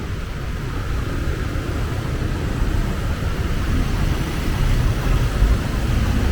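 Low, steady rumble of road traffic, growing slightly louder toward the end as a vehicle draws closer.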